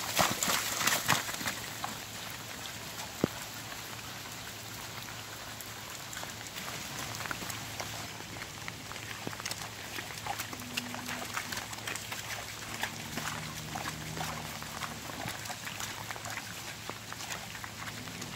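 Heavy rain falling, with many separate drops ticking against surfaces; it is loudest in the first second or so.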